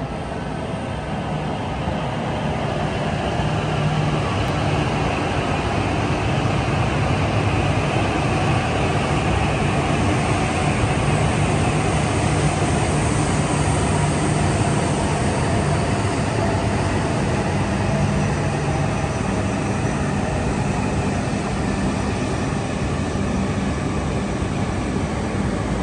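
Coupled E6-series Komachi and E5-series Hayabusa shinkansen running slowly past, coming into the station: a steady rumble of the train on the rails with a low hum. It grows louder over the first few seconds and eases slightly near the end.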